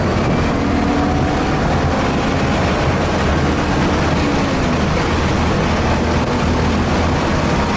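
Car engine running steadily at speed, heard from inside the cabin under a loud, even wash of road and wind noise.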